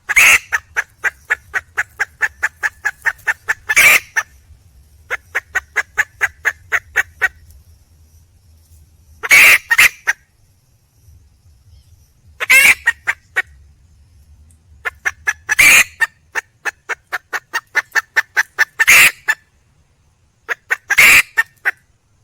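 Red junglefowl hen calling for a mate: runs of quick clucks, about four a second, broken every few seconds by a louder harsh cackle, seven in all.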